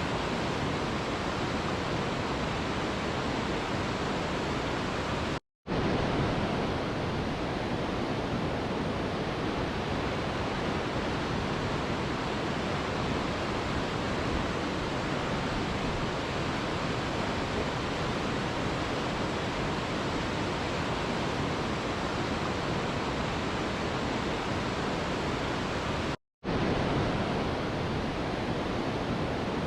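Mountain river rushing: a steady, even wash of flowing water. It cuts out to silence for a split second about five seconds in and again near the end.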